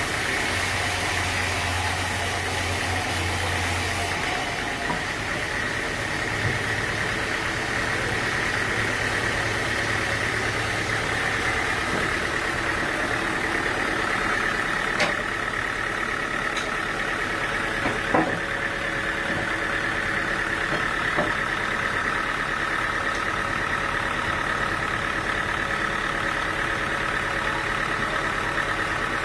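Sawmill machinery running steadily, a mechanical drone with a few sharp knocks in the second half.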